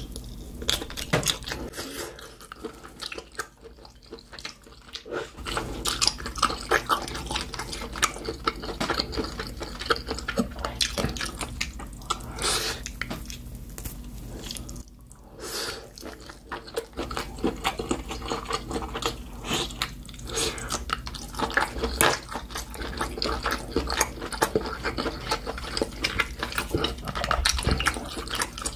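Close-miked chewing of grilled octopus: wet, sticky mouth sounds made of many small clicks and smacks, easing off briefly a few seconds in and again about halfway.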